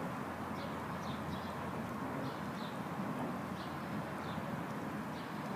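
Steady rain, with a bird giving short, high chirps over it about once or twice a second.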